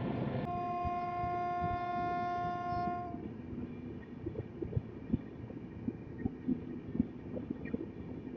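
A train horn sounds one steady blast lasting about two and a half seconds. Then comes the running noise of the train on the track, with irregular knocks and clatter.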